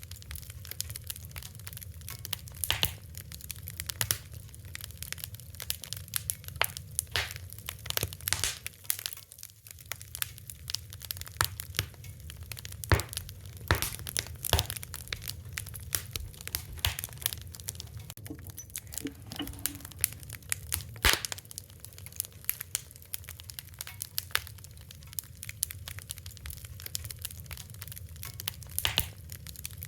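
Fire crackling: irregular sharp pops and snaps, some louder than the rest, over a steady low rumble.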